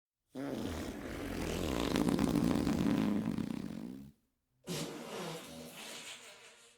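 Two fart sound effects. The first is long, nearly four seconds, with a wavering pitch; it grows louder and then stops abruptly. The second starts about half a second later and trails off.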